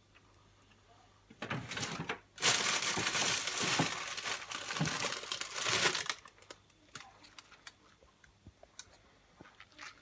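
Food packaging being handled and torn open, crinkling and rustling loudly for about four seconds, then a few light clicks and taps.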